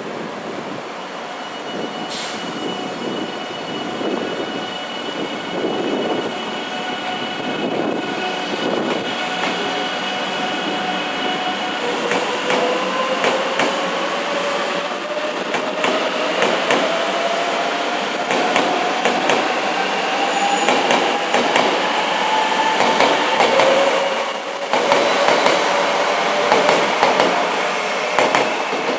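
700 series Hikari Rail Star Shinkansen train running, with steady running noise and the whine of its traction motors rising steadily in pitch from about halfway through as it picks up speed.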